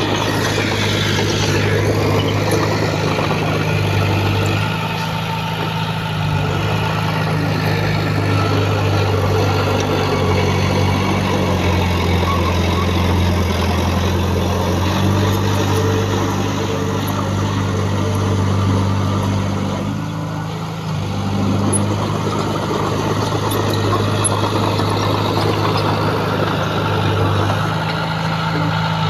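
Heavy earthmoving machinery running: a diesel engine working steadily under load, its pitch stepping up and down as the load changes, dipping briefly twice.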